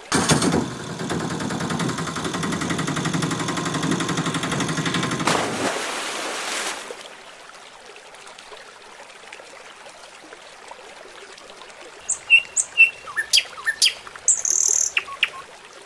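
A loud steady noise for the first six to seven seconds, then a faint steady rush of water, and several short high bird chirps near the end.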